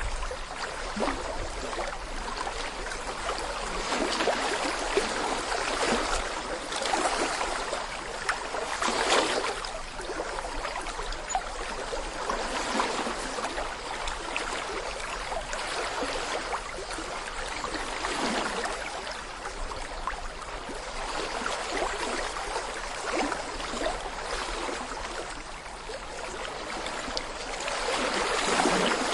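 A small brook babbling over stones: shallow water gurgling and splashing steadily, swelling a little now and then.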